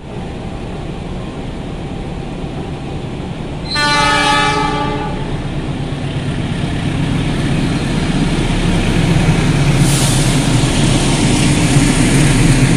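Passenger train drawn by a diesel locomotive, which sounds its multi-tone horn once about four seconds in for a second and a half, then the train runs past with its rumble and wheel noise growing louder toward the end.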